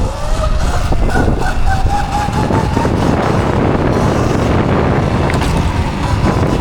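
Electric dirt bike being ridden under throttle: a thin motor whine rises over the first couple of seconds and then holds steady, under heavy wind rumble on the microphone.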